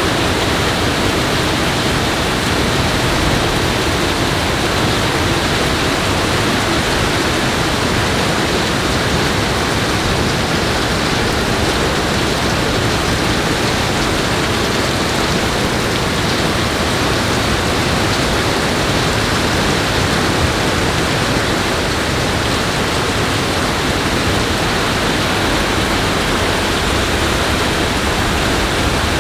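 Steady, loud rush of water with no let-up.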